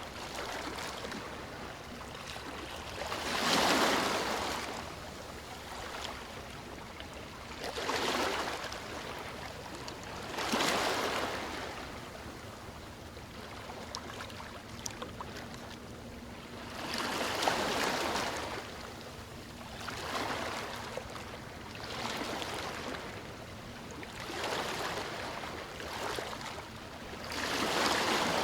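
Small waves washing onto a beach: a steady rush of water that swells with each wave every two to four seconds.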